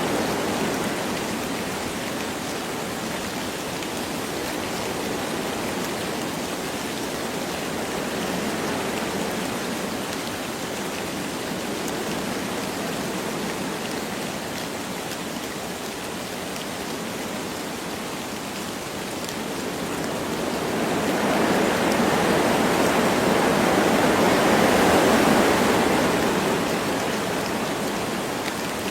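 Wind blowing through forest trees with light rain: a steady rushing hiss that swells in a gust about three quarters of the way through, then eases.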